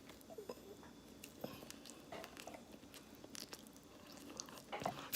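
Faint, scattered small clicks and crunches of someone biting into and chewing a peanut-butter-and-jelly sandwich.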